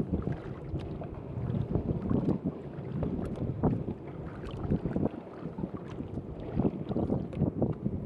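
Wind buffeting the microphone over water sloshing around a seaside pier, in uneven gusts with scattered small knocks and clicks.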